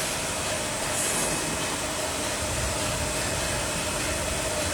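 Steady hum and hiss of factory machinery running, with a faint steady tone through it.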